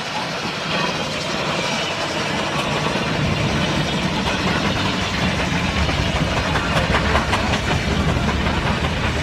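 Steam traction engine on the move, a steady mechanical running sound with a low rumble that grows a little louder.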